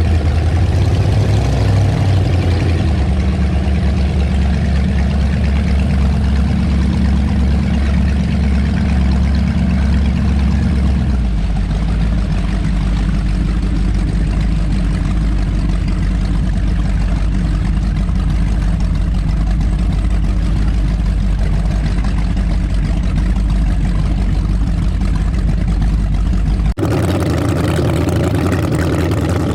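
Twin V8 engines of a powerboat running steadily at low revs, with a deep, even note. Near the end the sound changes abruptly to a different engine note.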